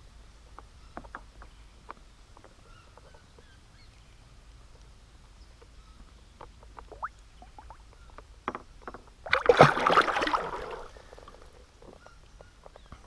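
Small splashes, water sloshing and light knocks at the side of a kayak as a trout cod is held in the water for release, with one loud splash about nine and a half seconds in.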